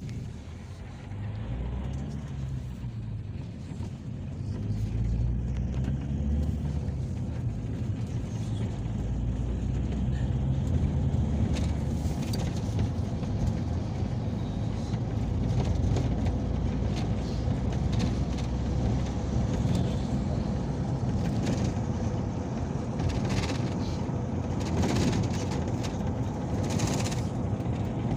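Peugeot Boxer minibus on the move, heard from inside the cabin: engine and road noise. The engine pitch rises and falls over the first several seconds and the sound grows louder about four seconds in, then holds steady, with scattered light rattles and clicks.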